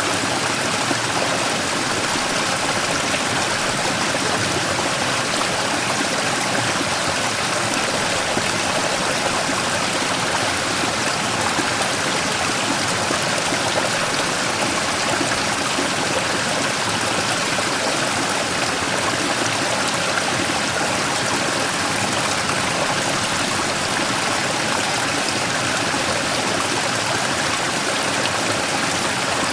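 Mountain stream rushing and splashing over a large rock in a small waterfall, a steady, even wash of water noise.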